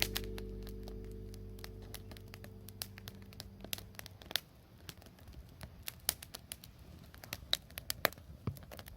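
Background music fading out over the first few seconds, leaving a wood bonfire crackling with scattered, irregular sharp pops.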